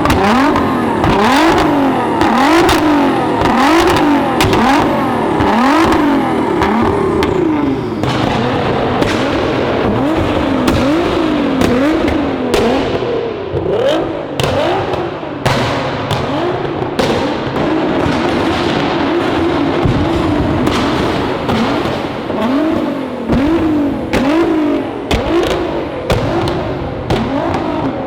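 Performance car engines revved over and over in quick blips, each rising and falling in pitch, with sharp cracks and pops from the exhaust.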